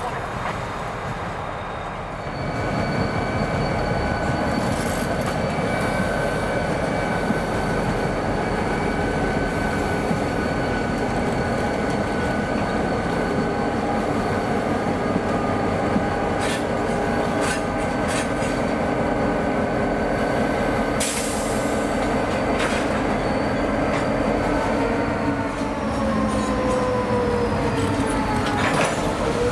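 CSX EMD GP-series diesel locomotives rolling slowly past, engines running, with steel wheels squealing on the rails in steady high tones and a few sharp clanks. Near the end the squeal slides down in pitch as the caboose goes by.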